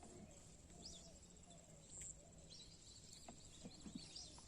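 Faint outdoor quiet with scattered small bird chirps, short high calls coming every so often.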